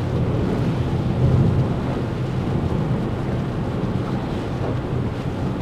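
Steady low rumble of a car's engine and tyres, heard inside the cabin while driving.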